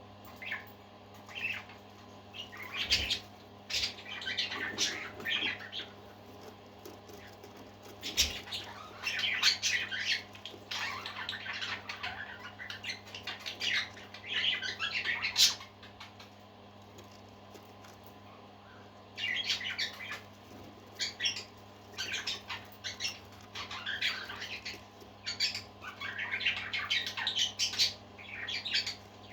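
Parakeets chirping and chattering in bursts, with a lull of a few seconds in the middle. A steady low hum runs underneath, and there are two sharp knocks in the first third.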